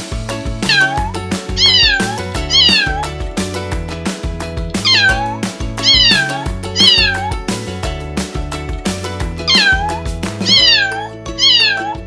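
Kitten meowing: eight short, high meows that fall in pitch and turn up at the end, in runs of three, three and two, over background music with a steady beat.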